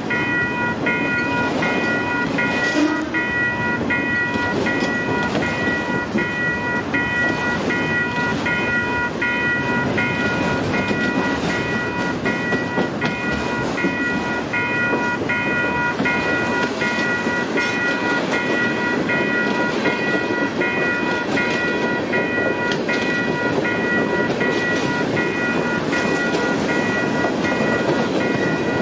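Freight train cars, autoracks then coal gondolas, rolling past at speed: a steady rumble of steel wheels on rail with a rhythmic clickety-clack at the rail joints. Over it, a high ringing tone pulses evenly and quickly throughout.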